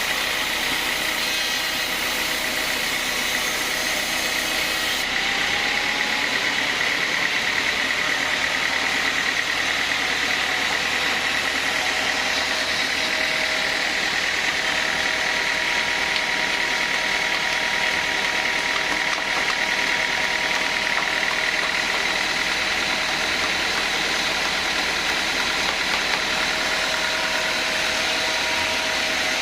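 Sawmill band saw running steadily with a continuous mechanical noise; the highest hiss drops away about five seconds in.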